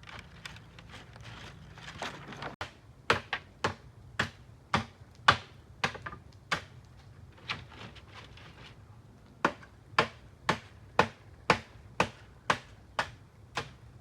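Repeated sharp knocks of something being struck, about two a second, in two runs with a pause of a couple of seconds between them.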